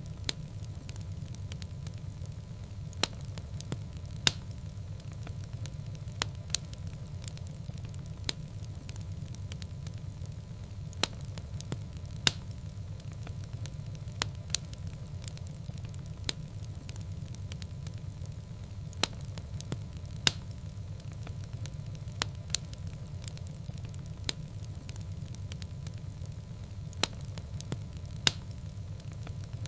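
Wood fire burning in a fireplace: irregular sharp crackles and pops, a few every couple of seconds, over a steady low rumble.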